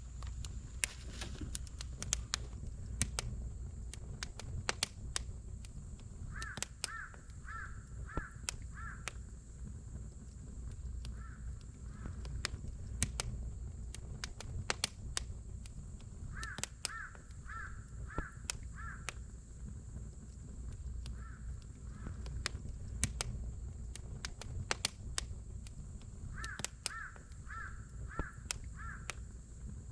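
Wood campfire crackling with sharp pops and snaps throughout, over a low rumble. A bird calls in runs of four or five notes about every ten seconds, with shorter pairs of calls between.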